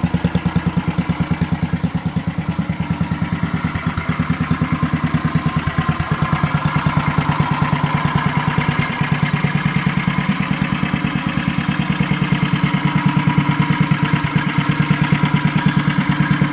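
Single-cylinder four-stroke Tecumseh H50 engine on a 1970 Trail Horse mini bike, idling steadily with an even, rapid firing beat.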